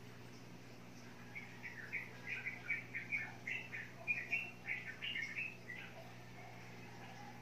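Small birds chirping, a quick run of short high chirps from about one to six seconds in, over a steady low hum.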